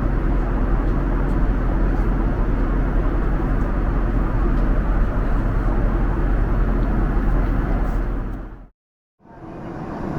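Steady, even rumble of a vehicle on the move, strongest in the low end; it cuts off abruptly near the end and a similar rumble starts again after a brief gap.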